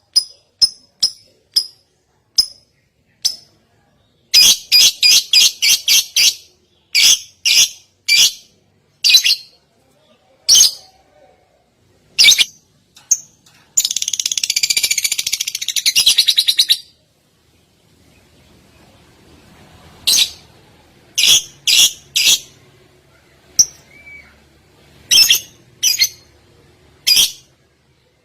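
A songbird singing: sharp, high chirps in irregular series, a fast run of calls about four seconds in, and a dense buzzy trill lasting about three seconds near the middle.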